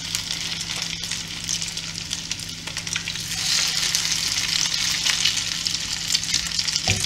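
Grated-potato pancakes sizzling and crackling in hot vegetable oil and butter in a frying pan while they are turned over with silicone spatulas. The sizzle grows louder about three seconds in, and there is a soft knock near the end.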